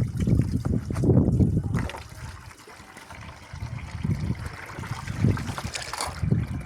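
Water running and splashing over dishes being washed by hand, in uneven swells that ease off about two to three seconds in.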